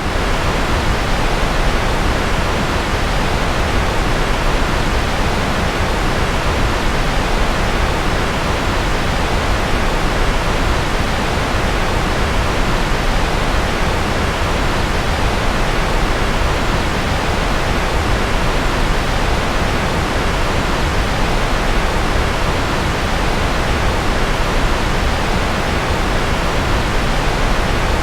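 Steady, unbroken rushing noise spread evenly from deep rumble to high hiss, a white-noise sleep track made to sound like a rocket or jet engine.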